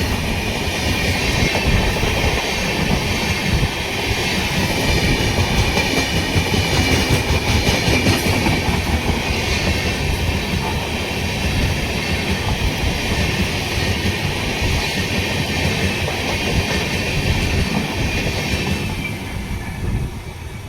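Passenger train passing close by at speed: a steady rumble of coaches with wheels clattering over rail joints, fading near the end as it goes by.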